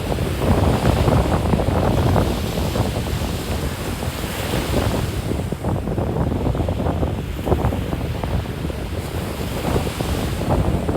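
Ocean surf washing onto a sandy beach, with wind buffeting the microphone in uneven gusts.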